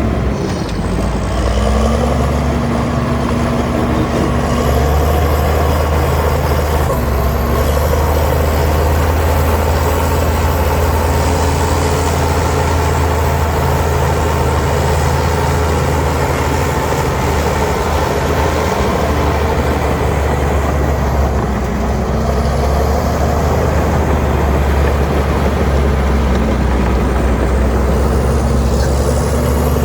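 Heavy diesel engine of earthmoving machinery running steadily under load, its note shifting slightly now and then.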